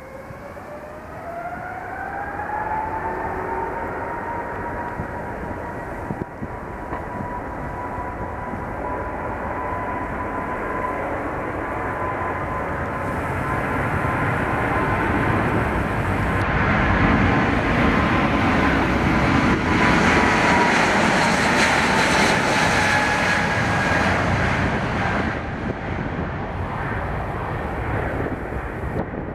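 Boeing 777 jet engines spooling up to takeoff thrust, their whine rising in the first couple of seconds and then holding steady, as the airliner makes a long takeoff roll. The roar swells to its loudest as the jet passes, the whine drops slightly, and then the sound eases off.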